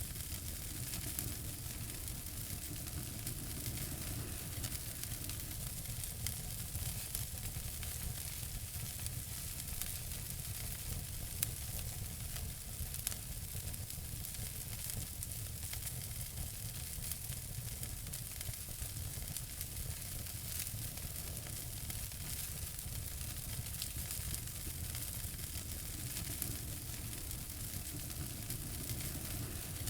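Wood fire burning in a fireplace: a steady hiss of flames with many small crackles and a couple of sharper pops.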